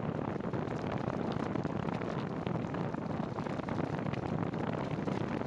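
Steady rushing noise of cycling in the rain: wind and rain on the microphone.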